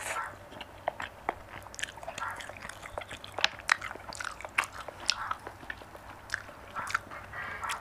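Close-miked chewing of tender marinated mutton: wet mouth clicks and lip smacks at an irregular pace, with a few sharper clicks.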